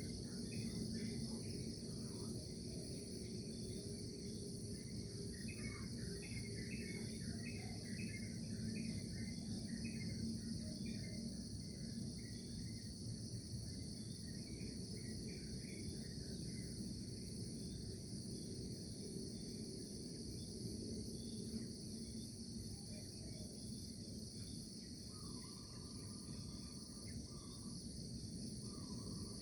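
Crickets chirping in a steady, shrill chorus, with short bird chirps now and then through the first half, over a low, even background noise.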